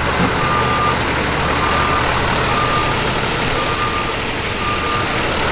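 A vehicle's reversing alarm beeps about once a second, five even single-tone beeps, over a loud, steady background of rumble and noise.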